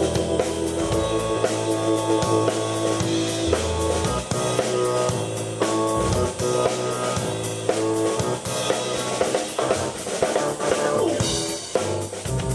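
Keyboard and drum kit playing a rock jam together: held keyboard chords over a steady drum beat with snare, bass drum and rimshots.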